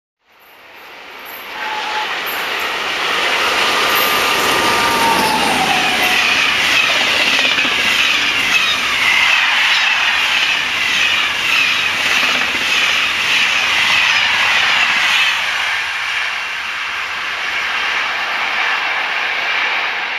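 A long passenger night train of sleeper coaches passes at speed close by. Its wheels clatter rhythmically over the rail joints under a steady rush of rolling noise. The sound builds over the first two seconds, and a short tone falls in pitch around five seconds in.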